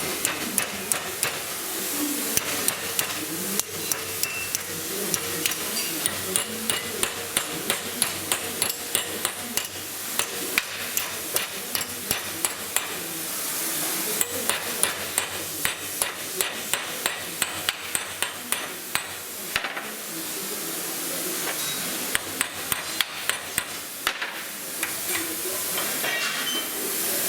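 Light hammer taps on a small workpiece, about two a second, in runs with short pauses, over a steady hiss.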